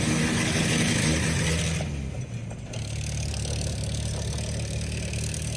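1966 Jeep CJ5's engine running, louder with extra hiss for about the first two seconds, then settling into a steady run.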